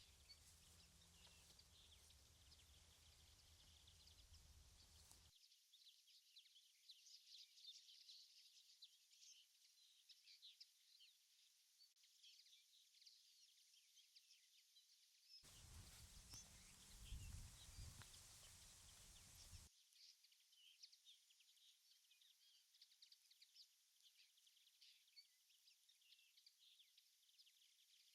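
Faint outdoor ambience with many short, high bird chirps. A low rumble sits under the first five seconds and returns for about four seconds in the middle.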